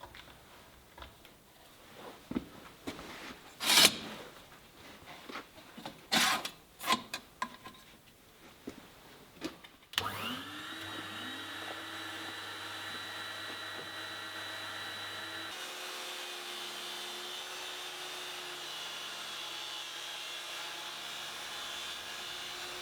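Knocks and clatter of things being handled, then about ten seconds in an electric workshop machine switches on, winds up and runs steadily, its hum shifting slightly partway through.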